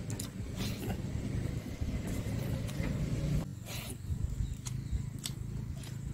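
A person chewing a mouthful of rice and mithun meat, with irregular wet clicks and smacks from the mouth, over a low steady rumble.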